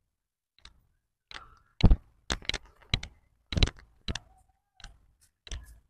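Footsteps of a person walking on a road, heard as short sharp clicks about two a second, a little uneven, with silence between them.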